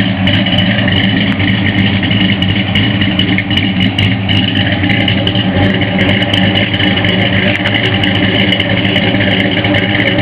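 1965 Ford F100's swapped 1995 Mustang Cobra 5.0 V8, with B303 cam, GT-40 heads, chrome headers and 2.5-inch exhaust with an H-pipe, idling steadily.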